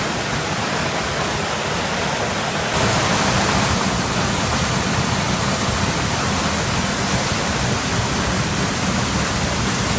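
Waterfall rushing in a steady roar of falling water, growing louder and fuller about three seconds in.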